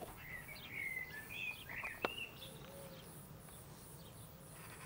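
Faint bird chirping and warbling during the first two seconds, over a steady high pulsing of about three pulses a second, with one sharp click about two seconds in.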